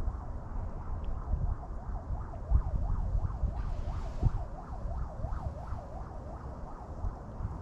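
Gusty wind buffeting the microphone with a low rumble. Over it, a fainter high warbling tone dips and rises two to three times a second through the middle, and a single thump comes about four seconds in.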